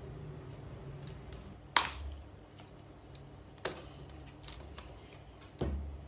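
Small repair tools and phone parts being handled on a work surface: three sharp taps about two seconds apart, with lighter clicks between them, over a low steady hum.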